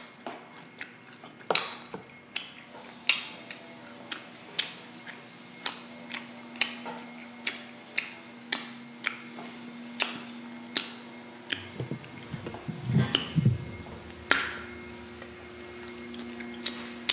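Close-miked eating of sticky glazed pork ribs: wet mouth and lip smacks while chewing, a sharp click roughly every half second to second, over a faint steady hum.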